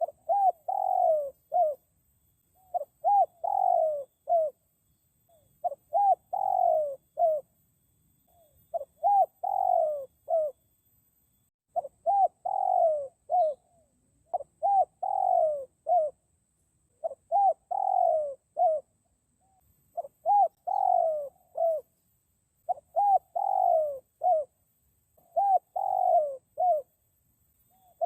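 Spotted dove (dekukur) cooing: the same phrase of four or five low cooing notes, repeated about ten times at an even pace of one phrase every two to three seconds, as in a dove lure call.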